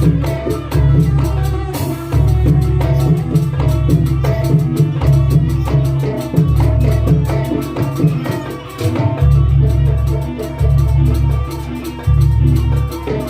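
Loud live percussion music for a jaranan-style dance: drums and struck pitched notes in a fast, steady rhythm over heavy low beats, which drop out briefly about nine seconds in.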